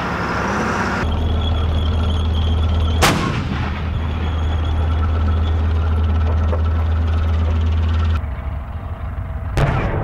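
A Leopard 1 tank's 105 mm main gun fires once, about three seconds in: a sharp, loud report that rolls away over a few seconds. Under it a tank engine runs with a steady low drone. A second, smaller sharp report comes near the end.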